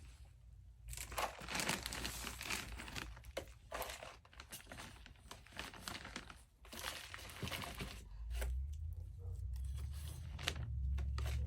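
Hands working potting soil around a peony in a plastic nursery pot: irregular rustling and crunching with small clicks. A low rumble joins in the last few seconds.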